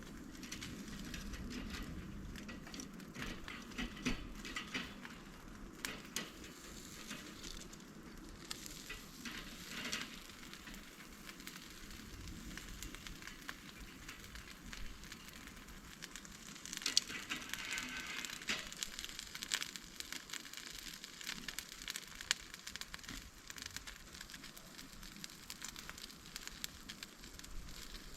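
Wood fire crackling and popping in a fire stand, with a denser stretch of hissing and sizzling about two-thirds of the way through.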